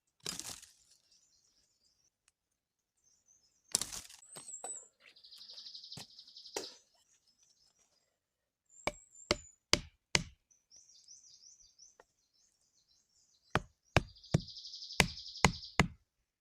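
Sharp knocking strikes, several in quick succession about 4 seconds in and a longer run from about 9 seconds on, with high bird chirps and two buzzing trills between them.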